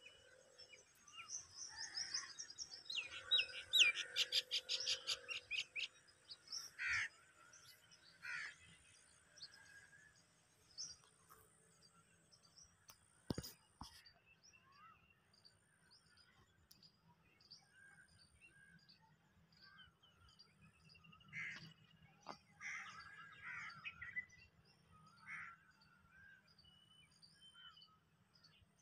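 Small birds chirping and calling, with a fast run of repeated high notes a few seconds in and scattered calls after. A single sharp click near the middle.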